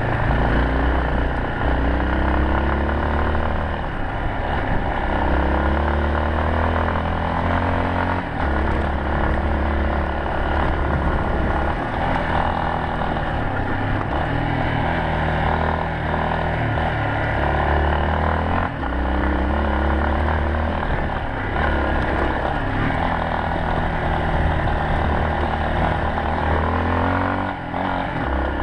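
Yamaha Serow 250's air-cooled single-cylinder four-stroke engine running under way. Its pitch climbs, drops off and climbs again over and over as the bike accelerates and changes gear.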